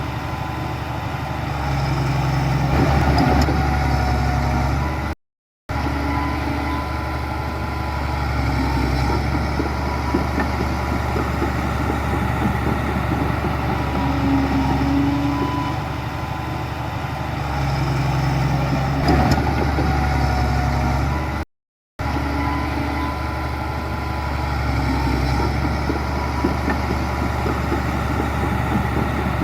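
Heavy diesel earthmoving machinery running steadily, its engine note swelling now and then under load. The sound cuts out twice to a split-second of silence.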